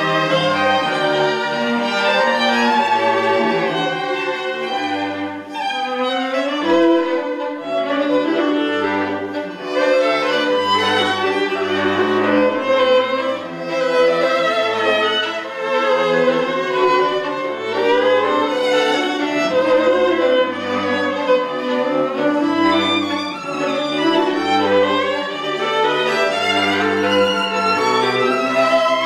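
Violin playing a melody over a lower accompaniment of held bass notes, with no pauses.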